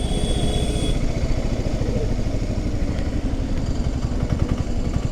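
Motorcycle engine running at a steady, low road speed with road rumble, heard from the rider's own bike.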